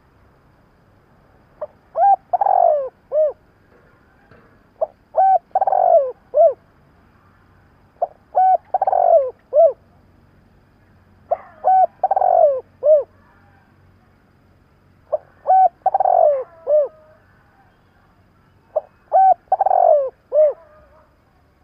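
Spotted dove cooing: six repeats, about every three and a half seconds, of the same song phrase, a couple of short coos, a longer falling rolled coo and a short final coo. This is the driving 'thúc' call used to stir up decoy doves.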